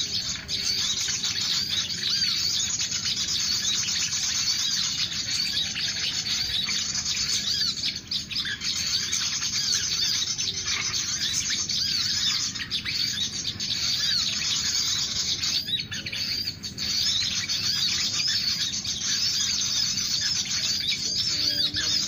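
Small birds chirping and twittering without a break, many high, quick, overlapping calls repeated over and over.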